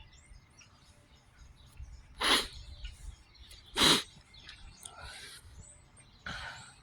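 Birds calling in open air: two loud short calls about two and four seconds in, with fainter high chirps between and after.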